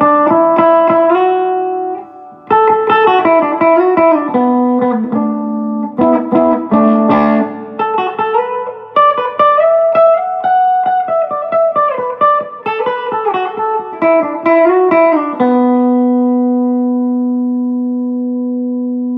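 1989 Epiphone Sheraton II semi-hollow electric guitar played on the middle pickup setting (both humbuckers together), mixing chords and single-note melody lines with a short break about two seconds in. It ends on a chord left to ring out.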